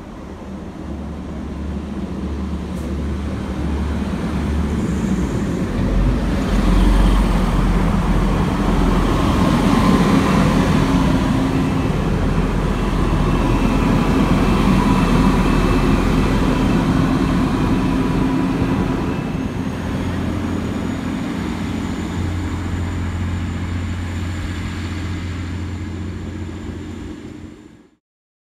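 TransPennine Express train arriving along the platform: a low engine drone with wheel-on-rail noise grows louder over the first several seconds, then holds steady. A thin high whine comes in during the second half, and the sound cuts off abruptly near the end.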